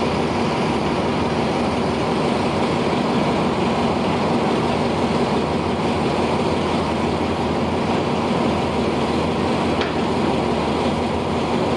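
Diesel locomotive engine running steadily at idle: a constant low drone with no change in pitch or level.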